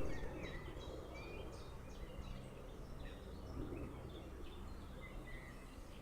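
Several small birds chirping and singing in quick, overlapping calls over a steady low background rumble.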